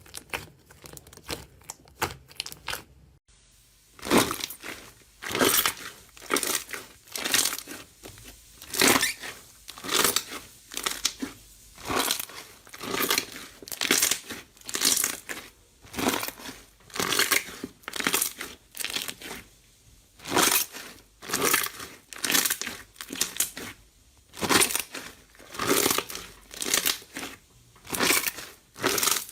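A crunchy material being pressed and squeezed by hand, crackling in rhythmic squeezes about once a second. Before the squeezes, a run of quick, sharp crackles stops abruptly about three seconds in.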